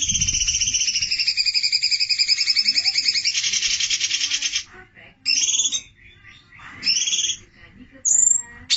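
Songbird singing: a long, rapid, high-pitched trill that wavers slightly in pitch and turns buzzier after about three seconds, then breaks off into three short, separate phrases.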